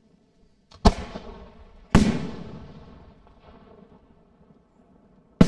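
Aerial firework shells going off: two sharp bangs about a second apart, each trailing off in a long echoing rumble, then another loud bang near the end.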